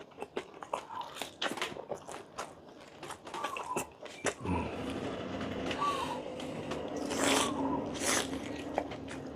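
Close-miked crunchy food being bitten and chewed: a rapid, irregular string of sharp crunches, with a steady low hum coming in about halfway through.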